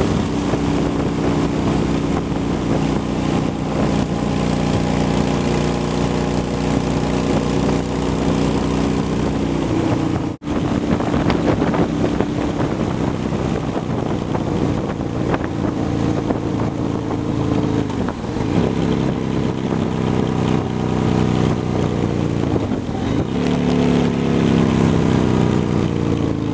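2003 Honda Shadow Spirit 750 V-twin with Cobra aftermarket pipes running under way, with wind noise over the microphone. The engine note dips and climbs back a few times in the second half, as with throttle or gear changes, and falls near the end as the bike slows. There is a brief dropout about ten seconds in.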